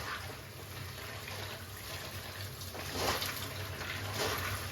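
Rinsed, wet pumpkin seeds being rubbed between the hands, a soft wet swishing and squishing with a few louder swishes near the end.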